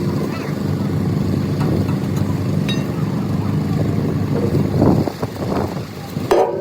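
An engine running steadily, with a few sharp knocks about five seconds in and again near the end.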